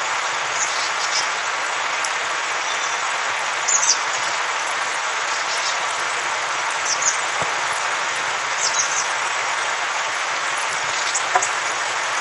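Steady rushing hiss of blizzard wind and blowing snow, with a few faint high ticks scattered through it.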